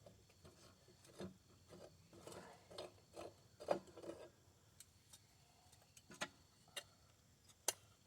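Faint, irregular clicks and light taps, the sharpest a little before the middle and another near the end.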